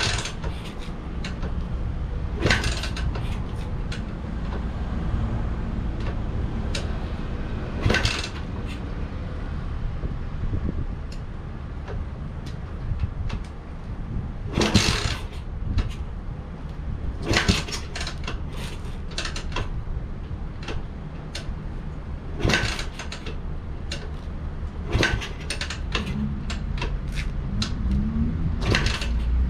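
Yamaha SR400's single-cylinder engine running with a steady low rumble, broken by a dozen or so sharp, irregularly spaced knocks. Near the end the engine starts to rev up and down.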